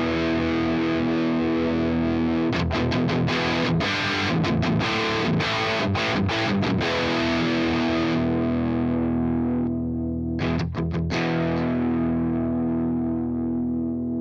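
Overdriven electric guitar through a Fender Blues Junior IV tube amp, captured with a speaker impulse response rather than a microphone. A held chord rings for the first couple of seconds, then a run of quick picked strokes follows. A chord then rings out and fades, broken by a few short stabs near the end before a final chord is held.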